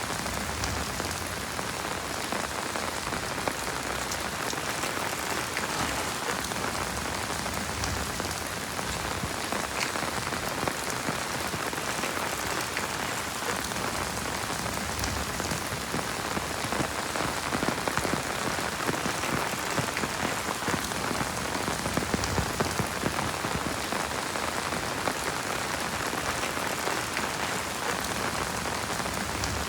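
Heavy rain falling steadily, an even hiss with scattered sharper drop hits, a few more of them around the middle.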